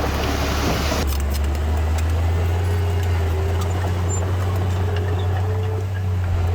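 Heavy construction machinery's diesel engine running steadily with a deep, even hum; a hissy upper layer of the sound drops away about a second in.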